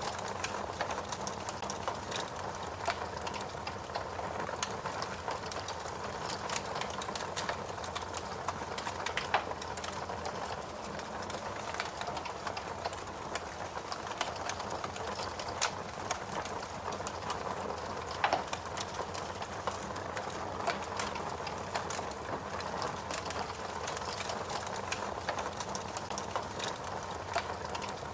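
Fire crackling steadily: a soft hiss with a constant scatter of small snaps and pops, and two louder pops about nine and eighteen seconds in.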